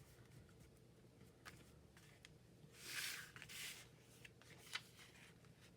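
Faint paper handling: a few soft ticks and taps, and a short louder rustle of paper about three seconds in.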